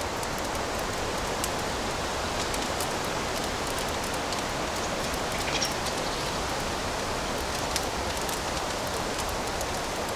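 Wood fire crackling in a fireplace: a steady hiss with scattered sharp pops, two slightly louder ones around the middle.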